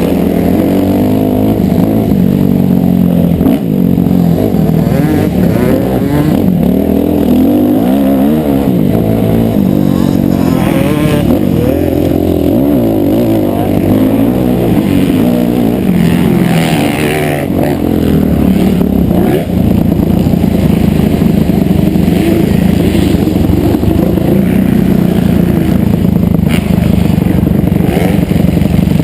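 Motocross motorcycle engine running loud and being revved, its pitch repeatedly rising and falling.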